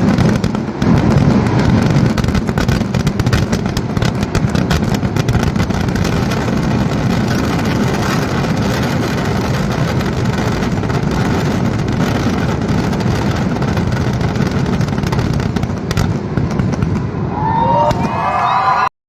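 Kerala temple-festival fireworks barrage: a continuous, rapid crackle of firecracker blasts over a heavy rumble. Near the end a few short whistling glides rise and fall above it.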